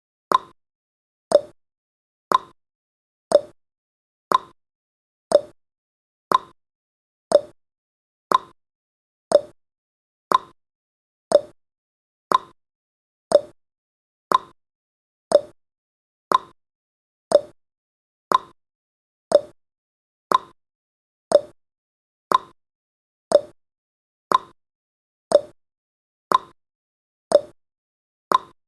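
A countdown timer's ticking sound effect: short, sharp ticks exactly once a second, alternating slightly between a higher and a lower tick like a clock's tick-tock.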